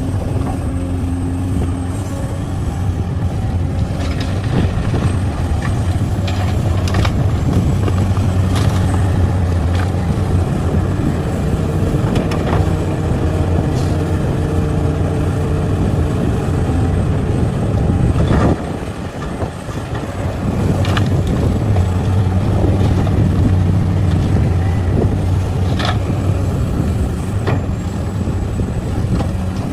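Heavy diesel engine of mining machinery running steadily under load, with scattered sharp clanks. Its level dips briefly a little past the middle, just after one of the knocks.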